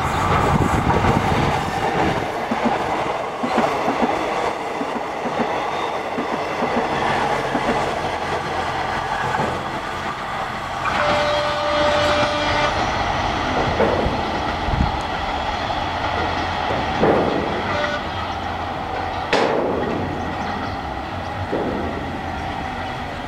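Green KRDE diesel multiple unit passing close by on the line, its engine and wheels running with clickety-clack over rail joints, the sound slowly fading as it draws away. A short steady high tone sounds about eleven seconds in.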